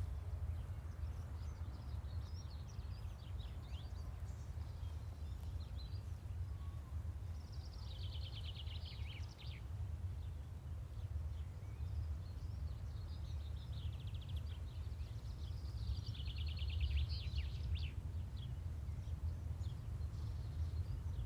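Outdoor ambience: a steady low rumble with small birds chirping, breaking into a rapid trill twice, about eight and sixteen seconds in.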